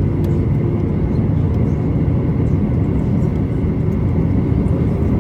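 Cabin noise of a Boeing 737-800 taxiing with its CFM56-7B engines at idle: a steady low rumble with a faint steady high whine.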